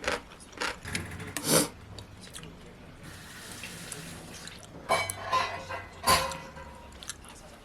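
A kitchen tap runs for about a second and a half, with dishes and utensils knocking and clinking at the sink before and after it.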